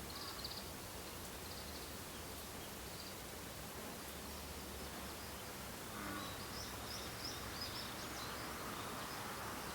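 Faint high, thin bird calls over steady outdoor background noise: a few short chirps near the start, then a quick run of them in the second half.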